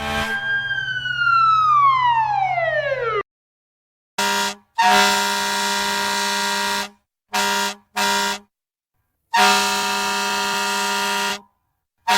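Fire truck siren winding down in one long falling pitch, then a series of fire truck air-horn blasts at a steady pitch: one short, one long, two short, another long, and one more starting right at the end.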